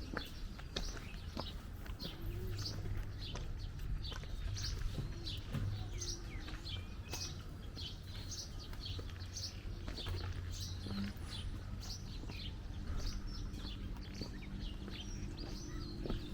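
Small birds chirping busily: many short, high chirps, several a second, over a low steady hum of city background.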